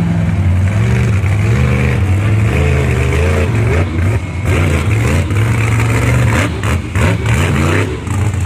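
Monster truck engine running loud, revving up and down repeatedly as the truck performs.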